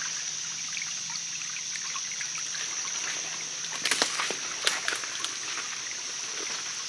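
Water trickling, with a steady high whine throughout and a few sharp clicks about four to five seconds in.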